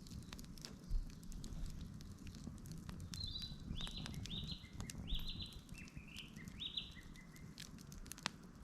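Wood campfire crackling with scattered sharp pops over a low rumble. In the middle a bird sings a series of short, high notes.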